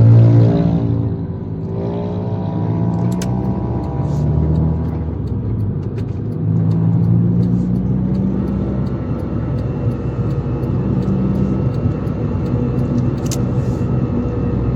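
Car engine running, its pitch falling at the start and rising again about two seconds in, then holding steady, with a few faint clicks.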